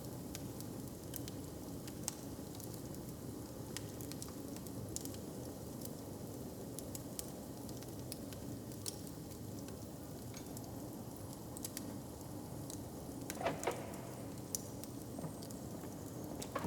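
Wood fire crackling, with sharp pops scattered over a steady low background rumble, and a brief louder knock near the end.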